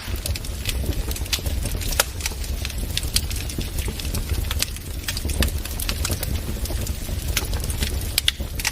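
Wood fire crackling: sharp, irregular pops and snaps scattered over a steady low rumble.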